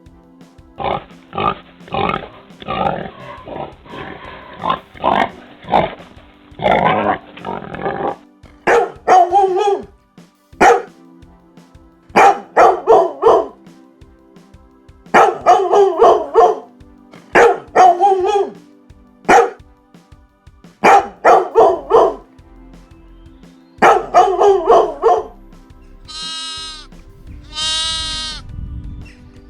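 Pig grunting repeatedly, then a dog barking in short clusters, then two long sheep bleats near the end, over soft background music.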